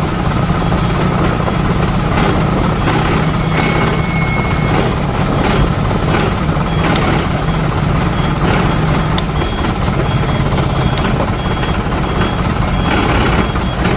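Heavy truck diesel engine running steadily at low revs, with a faint high beep repeating at even intervals in the second half.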